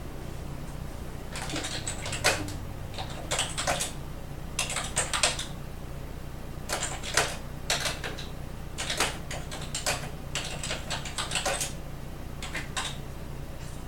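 Typing on a computer keyboard in short runs of quick keystrokes, over a low steady hum.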